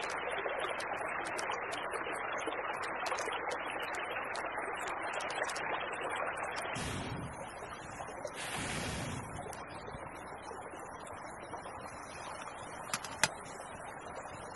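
Small creek running steadily, with two brief rustling noises about halfway and a couple of sharp clicks near the end.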